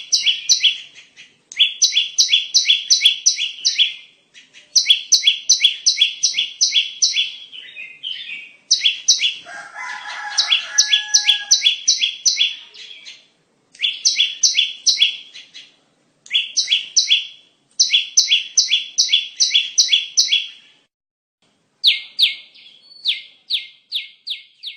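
Bar-winged prinia (ciblek) song used as a lure call: runs of quick, sharp, evenly repeated high chirps, about five a second, in phrases of two to three seconds with short gaps between. About ten seconds in, a lower, drawn-out two-part call from another bird overlaps for about two seconds.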